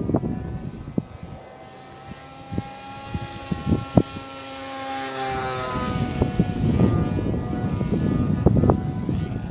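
Motor and propeller of a scratch-built RC model F-22 whining as it flies past, the pitch rising and then falling. Wind buffets the microphone throughout and is heaviest in the second half.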